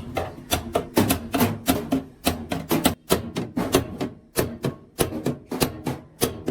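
Rapid hammer blows on sheet metal, about four strikes a second in an uneven rhythm.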